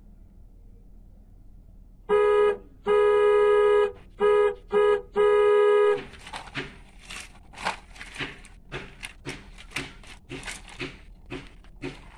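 A toy car's horn honks five times about two seconds in, mixing short and long blasts. It is followed by a run of quick clicking taps, about three a second.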